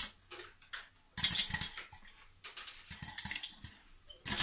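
Popcorn kernels popping in a pot on the stove: irregular sharp pops in quick clusters, the loudest burst a little over a second in. The pot rattles and scrapes as it is moved around on the burner.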